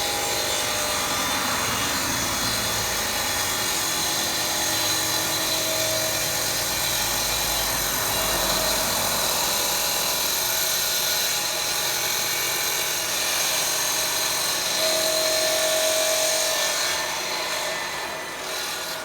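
A machine running steadily and loudly for most of the stretch, with a dense hiss and a few steady tones, easing off near the end.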